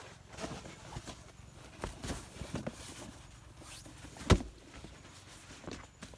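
Scattered rustling and light knocks of someone moving about and handling things, with one sharp knock about four seconds in.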